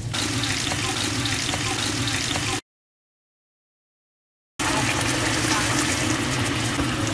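Chopped tomatoes and sliced onions sizzling in hot oil in a frying pan, crackling steadily as they are stirred. The sound cuts out completely for about two seconds in the middle, then the sizzling resumes.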